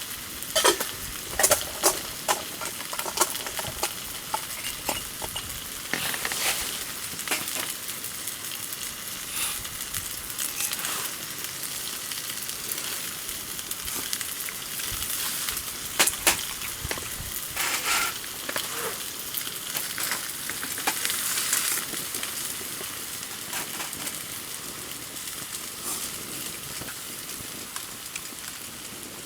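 Campfire hissing steadily, with sharp crackles and pops scattered through, most of them in the first few seconds.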